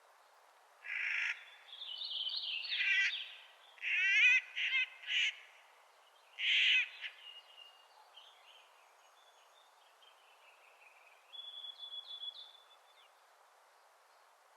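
Clark's nutcracker giving a run of harsh, grating calls, about five of them in the first seven seconds. Fainter thin whistled notes follow from about eight to thirteen seconds in.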